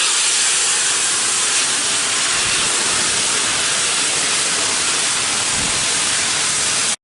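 A loud, steady hiss like escaping steam, with no tone in it, starting suddenly and cutting off abruptly.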